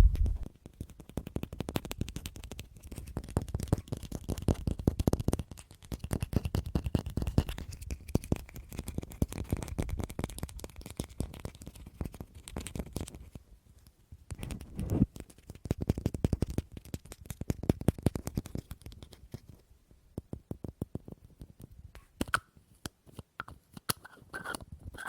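Rapid fingernail and fingertip tapping on small household objects, in quick dense flurries broken by brief pauses. Near the end a few slower taps ring with a faint tone.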